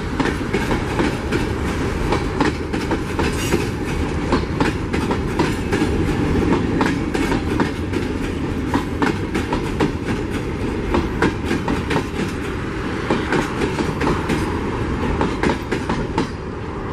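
Freight train of empty hopper wagons rolling past, with wheels clacking over the rail joints in quick irregular clicks over a steady rumble.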